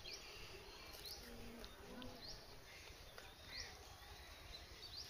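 Faint bird chirping: a short, high call repeated about five times, a little over a second apart, over quiet background.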